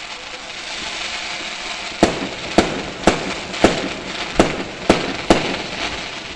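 Fireworks going off: a run of seven sharp bangs, about two a second, starting about two seconds in, over a steady hiss.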